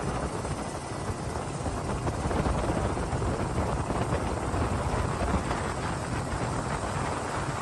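Steady helicopter engine and rotor noise, a dense, even rumble that does not let up.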